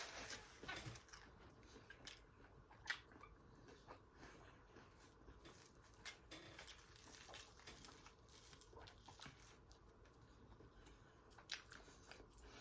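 Faint close-up chewing and mouth smacking of someone eating fried food, with scattered small crunches and clicks and a sharper click about three seconds in.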